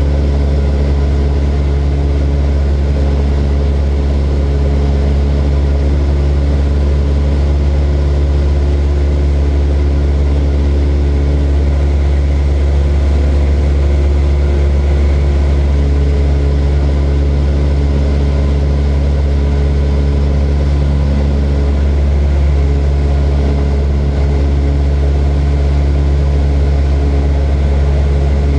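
Propeller aircraft engine droning steadily, a loud deep hum with several even tones above it and no change in pitch or level.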